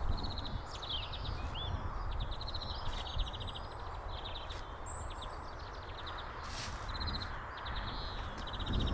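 Small birds singing outdoors in short, fast trills repeated every second or so, over a steady low background rumble.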